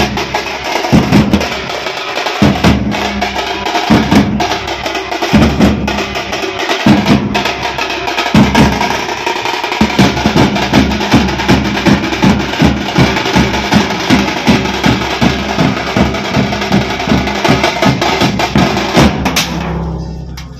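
Drum troupe playing loud, rhythmic drumming. Uneven strokes in the first half settle into a steady, fast beat of about three strokes a second about halfway through, and it stops just before the end.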